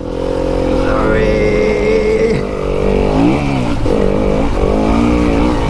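Fantic enduro dirt bike engine running hard on the track, revs rising about a second in, falling back around three seconds in and then climbing again as the throttle is worked, with wind rush underneath.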